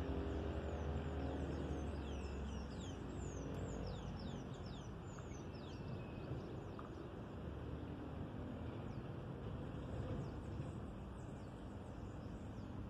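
A bird calling in a quick run of short, falling whistled chirps in the first half, with fainter chirps again near the end, over a steady low rumble and outdoor noise.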